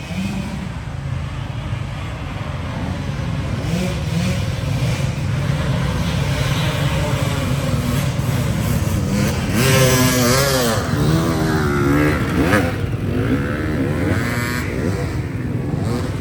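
Motocross motorcycle engines running and revving, pitch sweeping up and down as the bikes accelerate and pass. Loudest about ten seconds in.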